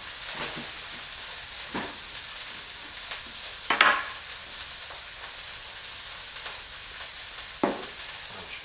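Frozen meat cubes sizzling in a nonstick frying pan, a steady hiss, with a few light knocks, the loudest just under four seconds in.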